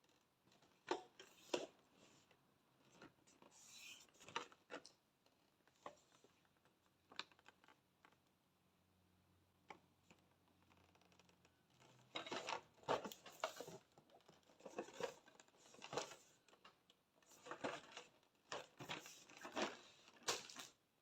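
Faint, irregular rustling, scratching and clicking of packaging being handled and opened, sparse at first and busier in the second half.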